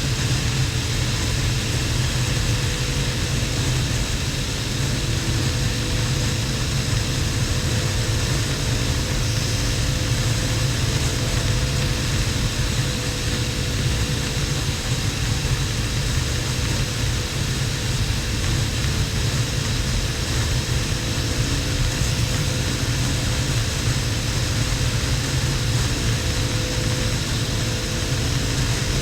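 Harley-Davidson XL1200N Sportster's air-cooled V-twin engine running steadily at motorway cruising speed, under a steady rush of wind and road noise.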